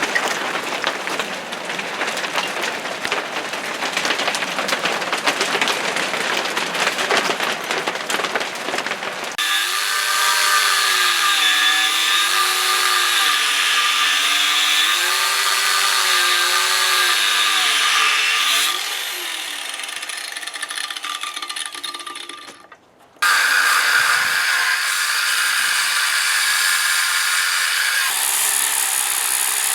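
A power tool cutting into cast-iron metal, its motor whine wavering up and down in pitch as it loads and frees in the cut. The noise breaks off abruptly a little past the middle and starts again at a steadier pitch.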